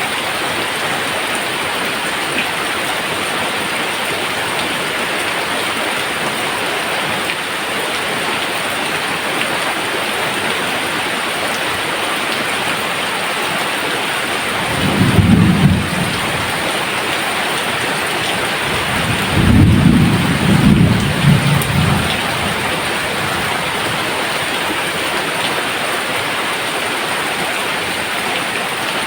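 Steady rain falling, with two low rumbles of thunder around the middle, the second longer and rolling in several swells.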